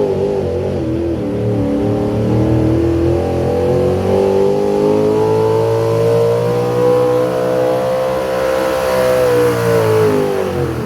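Engine of a pulling vehicle running hard at high revs under load. Its pitch wavers and dips in the first second, then climbs slowly and steadily through the run.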